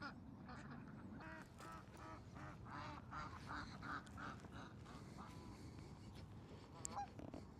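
Geese honking: a quick run of short calls in the first half, then a single call near the end.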